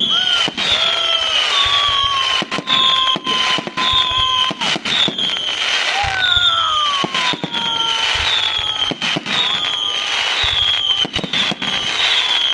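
Fireworks display: a dense run of sharp bangs and crackles, with whistling shells. A high falling whistle repeats about every two-thirds of a second, and longer, lower whistles glide down beneath it.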